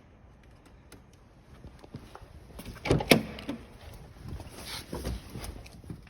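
Scattered knocks and clunks of things being handled, the loudest a pair of sharp knocks about three seconds in.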